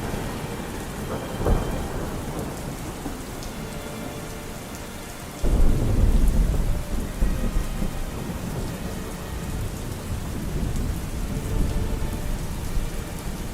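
Steady rain with thunder: a short thunderclap about a second and a half in, then a heavy low rumble that breaks in suddenly about five and a half seconds in and rolls on for several seconds.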